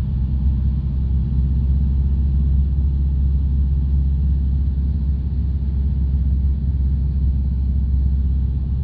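Single-engine light aircraft's piston engine droning steadily in flight, heard from inside the cockpit as a low, even rumble.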